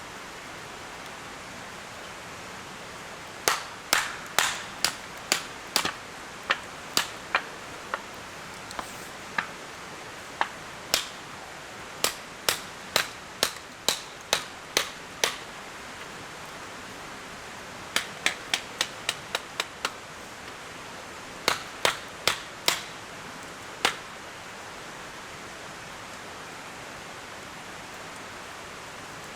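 Sharp, loud knocks in runs, roughly two a second, with a quicker run of about four a second later on, over a steady background hiss.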